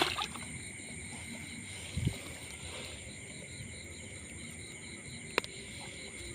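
Insects, such as crickets, chirping steadily in a continuous high-pitched chorus, one strand pulsing evenly. A dull thud comes about two seconds in and a single sharp click later.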